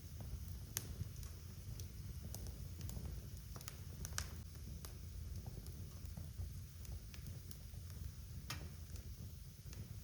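Wood fire in a fireplace crackling: irregular sharp pops and snaps over a low steady rumble, with louder pops about a second in, around four seconds in and past eight seconds.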